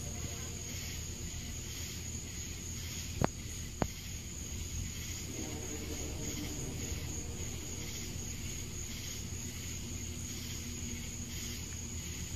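Insects, likely crickets, chirping in a steady, evenly repeating pattern over a low steady rumble, with two sharp clicks about three and four seconds in.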